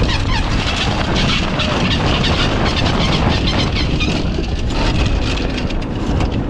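Small sailboat's motor running steadily under way, a loud even drone mixed with wind and water noise.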